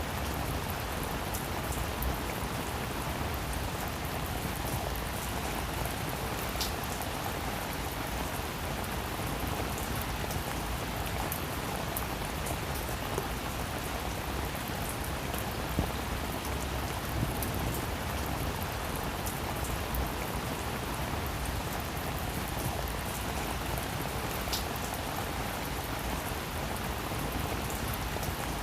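Steady rain falling on a roof, an even hiss with many small scattered drop ticks.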